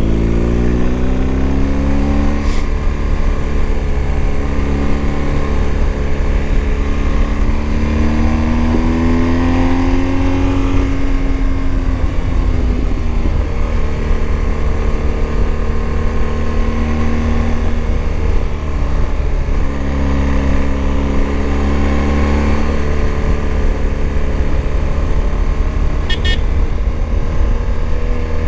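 BMW adventure motorcycle's engine running under way, its pitch climbing and easing off as the rider accelerates and backs off, over a steady low rumble of wind on the microphone.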